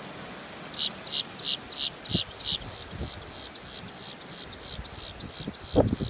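A shore bird calling a short repeated note, about three calls a second, loud for six calls and then carrying on more faintly. A couple of low bumps near the end.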